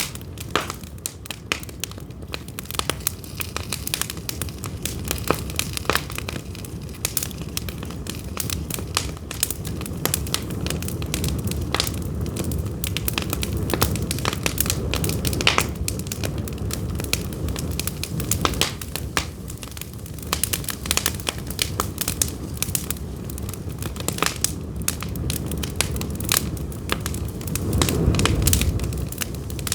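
Pine firewood burning, crackling and popping with many sharp snaps over the low steady noise of the flames, which swells briefly near the end.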